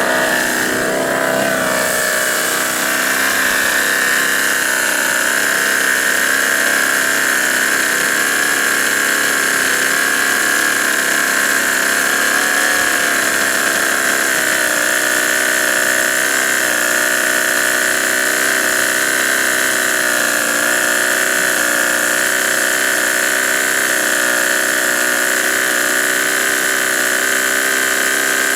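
G-Mark five-cylinder radial model aircraft engine running. Its pitch shifts in the first couple of seconds, then holds steady with a slight waver.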